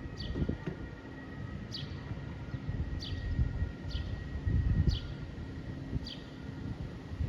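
A bird repeating a short, high, falling call note about once a second.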